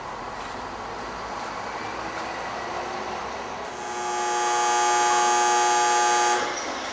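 Kotoden 1000-series electric train pulling into a terminal platform: a steady running rumble and hiss, then from about four seconds in a loud, steady, shrill ringing of several pitches at once that swells for about a second, holds, and cuts off abruptly near the end.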